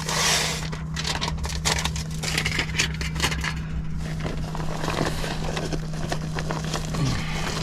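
Hands-on work noise: irregular clicks, knocks and scraping of tools and parts being handled, over a steady low hum.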